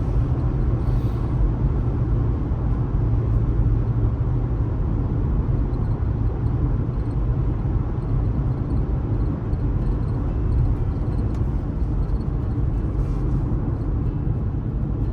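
Steady low rumble of a car driving along: road and tyre noise mixed with engine drone, even throughout.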